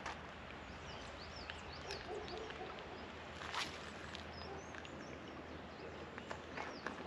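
Small birds chirping repeatedly over a steady low outdoor background, with a single sharp click about three and a half seconds in and a few fainter ticks near the end.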